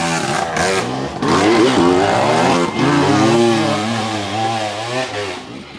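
Dirt bike engine revving, its pitch rising and falling with the throttle, easing off near the end.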